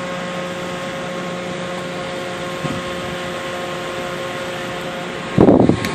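Home-built waste oil furnace running: a steady rush from its blower fan and burner with a constant hum. A short, louder sound breaks in near the end.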